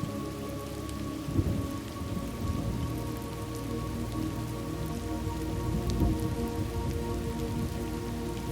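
Thunderstorm ambience: steady rain with low rumbles of thunder, one about a second and a half in and a louder one about six seconds in.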